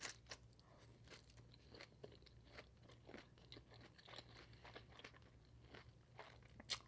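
Faint close-miked chewing: irregular small crunches and mouth clicks of food being eaten, with one louder crunch near the end.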